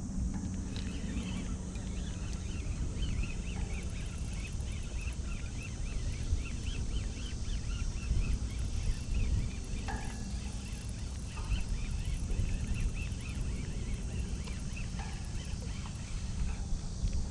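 Birds chirping in quick repeated calls over a steady low rumble.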